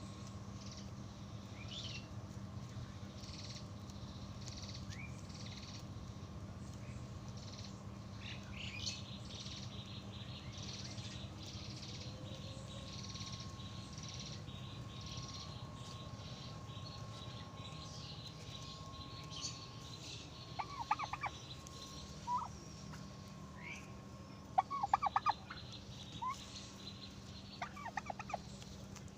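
Birds calling: repeated short high chirps through the first half, then several short, rapid stuttering calls in quick bursts near the end, over a steady low hum.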